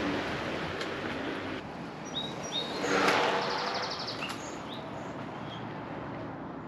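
Small birds chirping, a handful of short high chirps. Under them is a steady rushing noise that drops away about a second and a half in.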